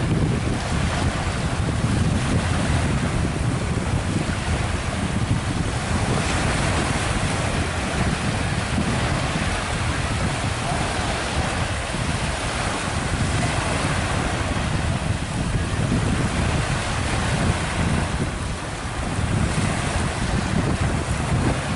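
Wind buffeting the microphone over a steady rush of sea water and surf, with no clear engine tone standing out.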